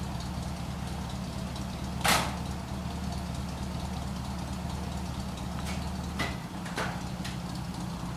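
1962 Chevrolet Impala's 283 cubic-inch V8 with a two-barrel carburettor idling steadily shortly after a cold start. A single sharp clack comes about two seconds in, and a few lighter clicks follow near the end.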